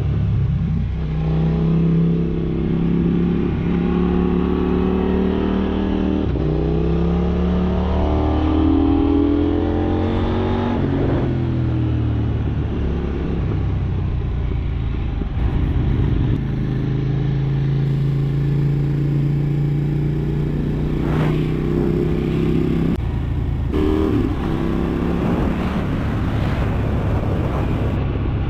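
KTM 790 Duke's parallel-twin engine heard from onboard, revs climbing and dropping as the rider accelerates and shifts gear several times, with a steadier stretch at part throttle in the second half.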